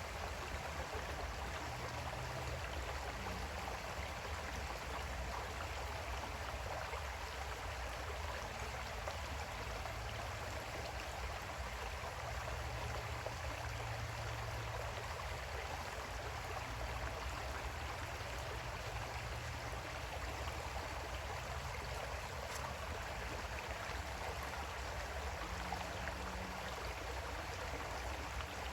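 Creek water flowing over rocks in a steady, even rush with a low rumble underneath.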